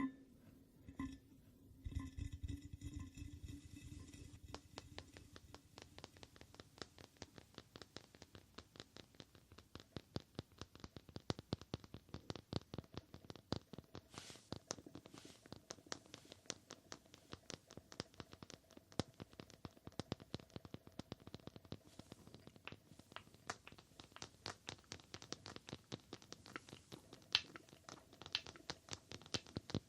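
Rapid ASMR tapping: light, quick taps, several a second, kept up steadily.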